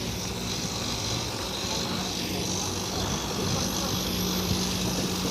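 An engine running steadily: a low, even drone over a constant wash of noise.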